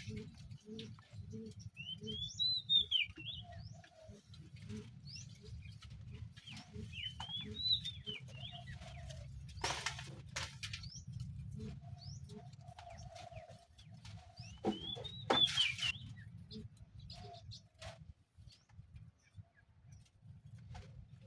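Birds calling: three rising-then-falling whistled calls several seconds apart, over a steady low rumble, with a couple of sharp knocks.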